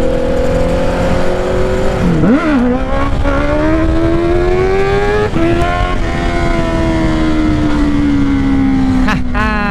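Honda CBR650R inline-four through a Black Widow exhaust with its dB killer removed, accelerating hard for a wheelie. The engine note dips sharply and climbs back about two seconds in, rises again to a short step about five seconds in, then falls slowly as the throttle eases.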